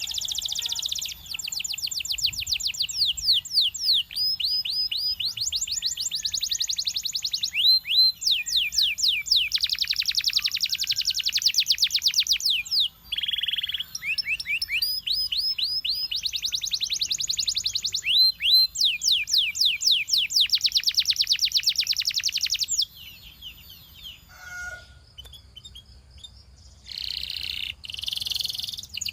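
Canary singing long, fast rolling trills of rapidly repeated sweeping notes, one roll running straight into the next at changing speeds. The song breaks off about three-quarters of the way in, leaving a few scattered notes and a short burst of song near the end.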